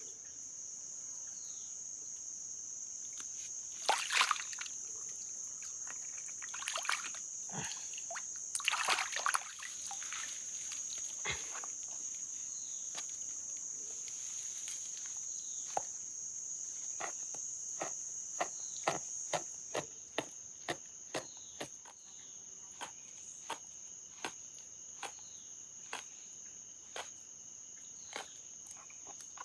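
Insect chorus of crickets trilling steadily at a high pitch, with a few louder splashing knocks in the first half and a run of sharp clicks about once a second near the end.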